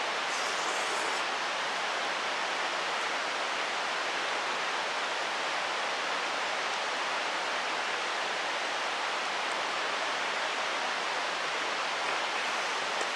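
Mountain stream rushing over rocks: a steady, even hiss of flowing water.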